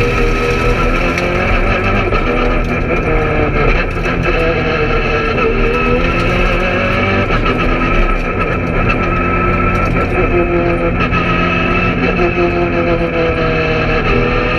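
Peugeot 208 R2 rally car's 1.6-litre four-cylinder engine heard from inside the cabin at full stage pace. The revs repeatedly climb and drop as the driver works through the gears, with a few short knocks in between.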